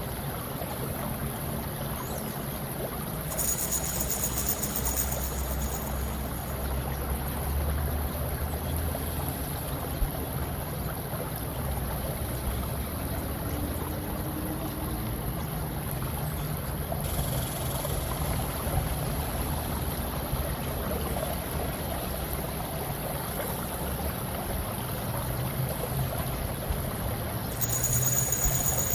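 Steady flowing-water ambience, an even rushing wash with no distinct events. A faint low hum and a high-pitched layer sit underneath, and the high layer changes character a few seconds in and again near the end.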